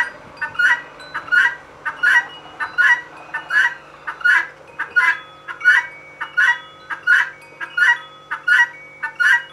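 Female helmeted guinea fowl giving her two-note "buck-wheat" call over and over, a pair of sharp, high notes about every three-quarters of a second.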